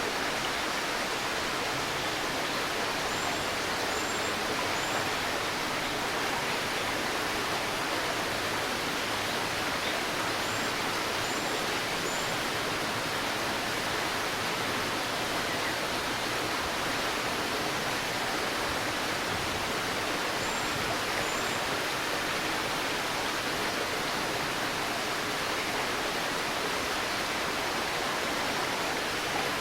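River babbling with a steady rush of water. Faint, high bird chirps come in three short runs of two or three notes.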